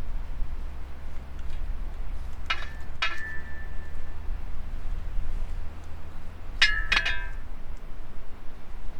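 Kitchenware clinking: two pairs of short, ringing clinks, one pair about two and a half seconds in and another near seven seconds, over a steady low rumble.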